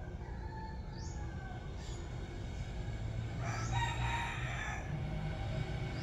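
A rooster crowing once, a call of about a second that starts around three seconds in, over a steady low background rumble, with a few short high bird chirps earlier.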